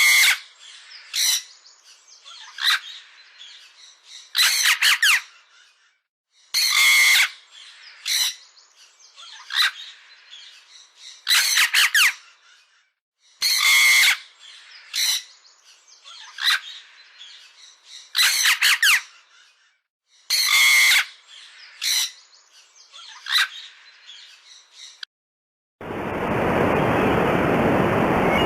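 A bird calling again and again, short separate calls every one to two seconds. Near the end the calls stop and a steady rushing noise takes over.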